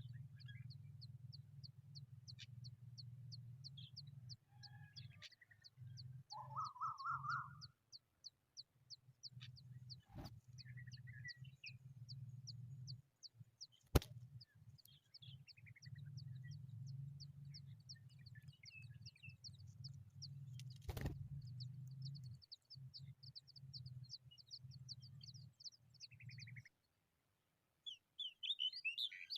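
Familiar chat nestlings begging with a rapid, even train of thin high chirps, several a second, over a low hum. About seven seconds in there is a louder, lower rising call, there are a few sharp knocks, and near the end comes a sudden flurry of calls.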